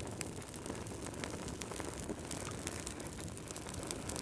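Wood fire in a fireplace crackling, with irregular sharp pops and snaps over a steady low hiss of burning.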